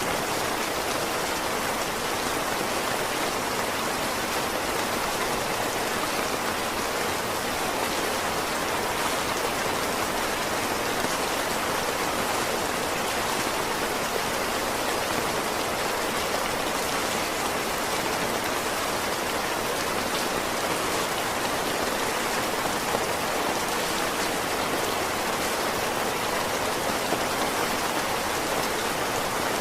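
Heavy rain falling steadily, a dense even hiss of many drops pattering on surfaces.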